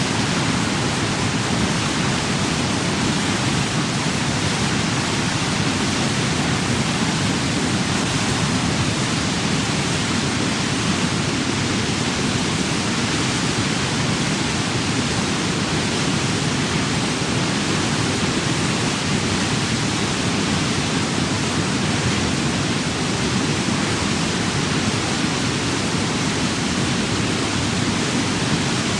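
Steady, loud rush of falling water, as from a rain-forest waterfall, an even hiss that does not change.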